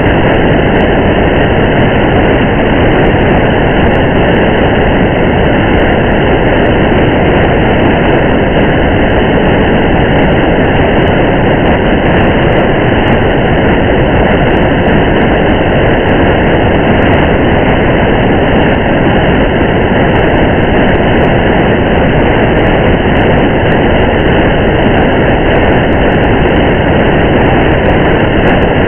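Steady driving-in-the-rain ambience: the even rumble and hiss of a car moving along a wet highway with rain falling, unchanging throughout.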